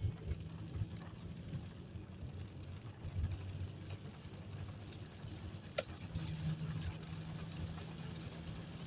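Car being driven, heard from inside the cabin: steady low engine and road rumble, with one short click about six seconds in.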